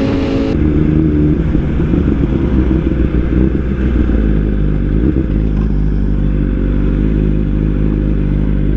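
Superbike engine running at fairly steady revs over a heavy low rumble, with an abrupt change in the sound about half a second in.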